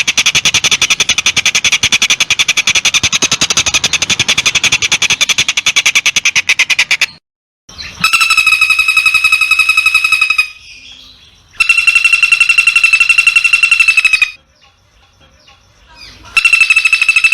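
Edited recordings of songbird calls for a bird-song training track. First a long, very fast buzzy trill, which cuts off suddenly about seven seconds in. Then three separate buzzy notes, each held steady at one high pitch for two to three seconds.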